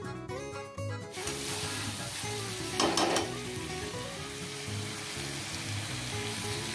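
Chicken liver masala sizzling in oil in a metal kadai while being stirred with a metal spatula. The sizzle starts about a second in, with a brief louder burst about three seconds in. Soft guitar music plays underneath.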